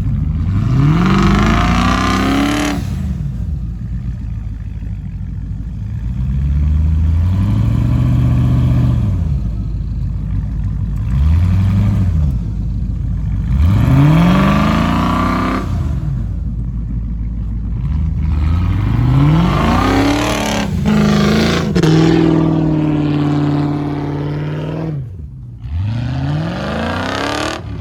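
Land Rover V8 engine being revved about six times, each rev climbing in pitch and dropping back, with one rev held high for a few seconds just past the middle.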